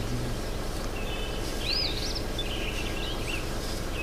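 Birds calling: a looping whistle that rises and falls about two seconds in, with short level chirps just before it and warbled notes after, over a steady low hum.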